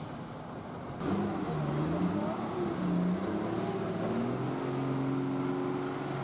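Diesel engine of a tipper truck stuck in mud, revving with its pitch rising and falling, then holding at a steady speed for the last couple of seconds.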